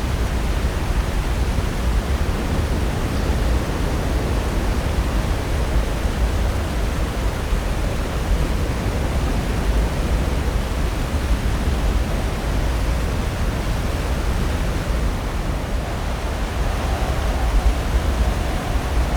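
Pacific Ocean surf: a steady, continuous wash of breaking waves, with a slight swell late on.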